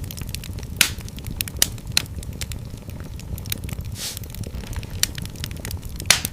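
Wood fire in a fireplace crackling steadily with dense small snaps, and several louder pops, over a low continuous rumble of the flames.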